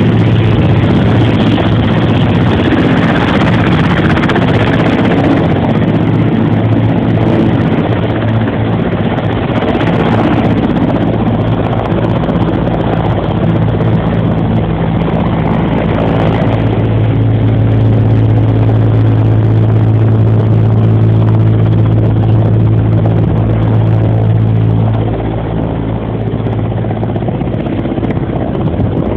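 Helicopter running close by: a loud, steady engine-and-rotor drone with a deep hum, easing slightly near the end.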